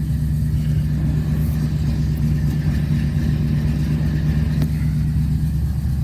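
1979 Chevy C20's bored-out 350 V8 with dual exhaust idling steadily on the choke just after a cold start.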